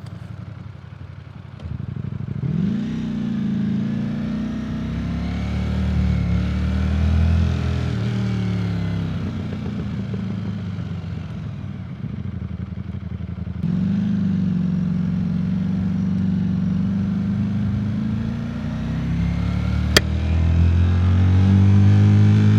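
Ducati Streetfighter V4 S motorcycle's V4 engine, running quietly at first, then pulling away with the revs rising and falling through the gears. There is a sharp click about twenty seconds in.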